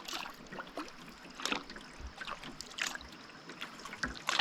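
Canoe paddle strokes in the water, about one every second and a half, with small splashes and drips in between.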